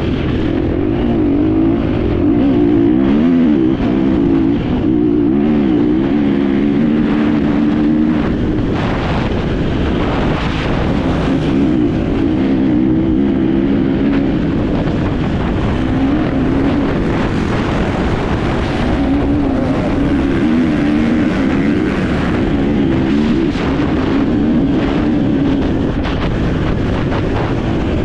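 Enduro motorcycle engine heard on board during a race, its pitch rising and falling again and again as the throttle opens and closes, over the rumble and wind of the ride.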